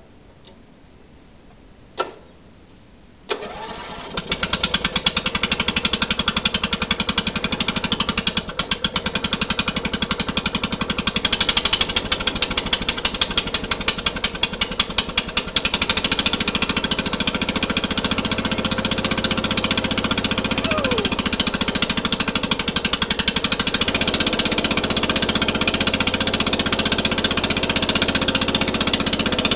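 Briggs & Stratton 14.5 hp OHV garden tractor engine cold-starting after sitting over six years: two sharp clicks, then it fires up about three seconds in. It runs unevenly with a pulsing beat at first and settles into a steadier run after about fifteen seconds.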